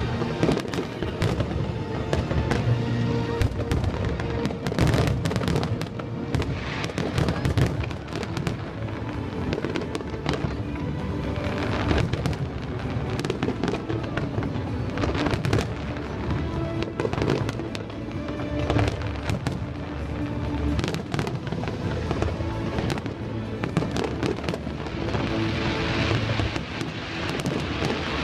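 Fireworks display: a continuous run of sharp bangs in quick succession, with music playing underneath.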